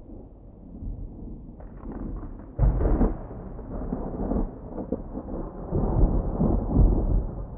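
A thunderclap: a crackle builds, then a sharp crack about two and a half seconds in, followed by a long rolling rumble that swells and fades back to a low background rumble near the end.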